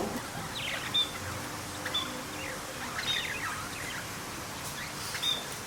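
Birds chirping in short calls that sweep down in pitch, repeating about once a second over a steady background hiss.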